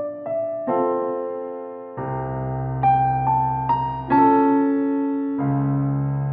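Background music: a gentle electric-piano melody, single notes struck one after another over low chords that come in about two seconds in and again near the end.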